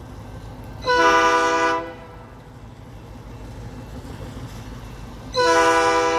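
Locomotive air horn sounding twice: a short blast about a second in, then a longer blast starting near the end, over a steady low rumble.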